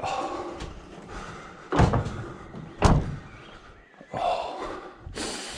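Two loud slams about a second apart near the middle, with quieter knocks and handling noise around them.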